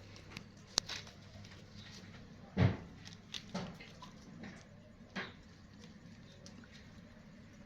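Kittens playing: scattered light taps and scuffles, with a soft thump about two and a half seconds in and a couple of smaller knocks after it.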